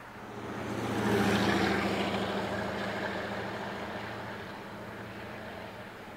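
Ford Model T speedster's four-cylinder engine running as the car drives past close by. It is loudest about a second in, then fades steadily as the car pulls away down the road.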